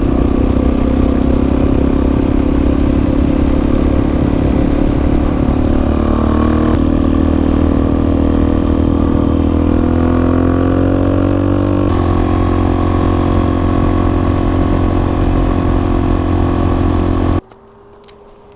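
Suzuki DR-Z400S single-cylinder four-stroke engine running under way on a dirt road. Its pitch rises steadily for several seconds in the middle as the bike speeds up, with a couple of abrupt shifts in tone. The sound cuts off sharply near the end.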